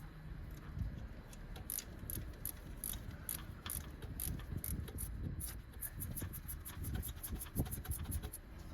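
Ratchet wrench clicking as it backs out a bolt, the clicks coming faster toward the end as the bolt loosens.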